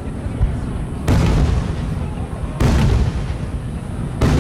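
Aerial firework shells bursting, three deep booms about a second and a half apart, each trailing off in a low rolling rumble.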